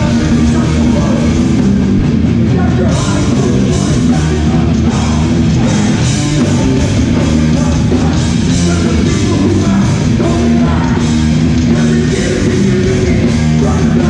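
Hardcore punk band playing live and loud: distorted electric guitars, bass and a driving drum kit, with vocals.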